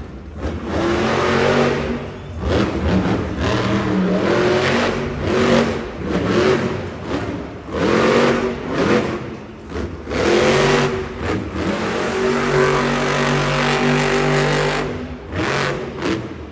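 Monster truck engine revving hard in repeated bursts, the pitch sweeping up and falling back several times, then held steady at high revs for a few seconds before it drops away near the end.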